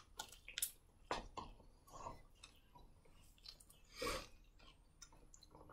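Faint chewing and biting: a person eating fried chicken, with scattered short clicking mouth sounds spaced irregularly, a louder one about four seconds in.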